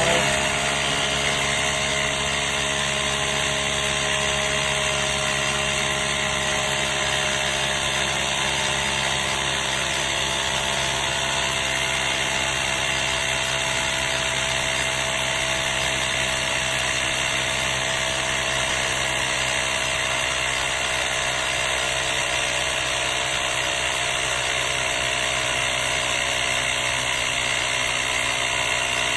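A Nature Hero cordless portable tire inflator's small electric compressor switches on and runs steadily, pumping a bicycle tire up toward a preset 35 PSI. It makes an even motor drone with a steady whine.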